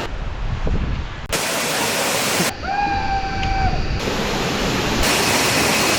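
Waterfall rushing, heard in several short clips that cut abruptly from one to the next. About two and a half seconds in, a steady held tone lasts about a second.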